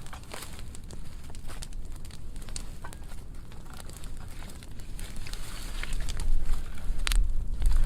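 Burn pile of dry pruning wood burning, the fire crackling with many sharp pops, one loudest pop near the end. A deep rumble of the flames grows louder over the last couple of seconds.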